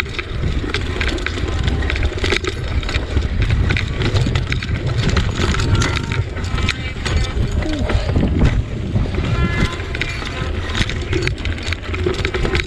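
Wind rumbling on the microphone of a bicycle being ridden, with many small clicks and rattles.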